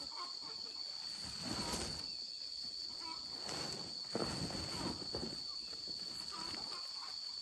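Insects keeping up a steady high-pitched drone, with intermittent rustling and handling noises and a few faint chirps.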